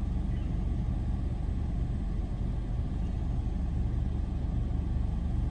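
Car engine idling steadily, a low even hum heard from inside the cabin with the driver's window rolled down.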